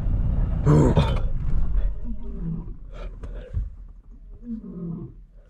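Male lion calling: a series of low calls, each sliding down in pitch. A vehicle engine idles under the first couple of seconds and fades out.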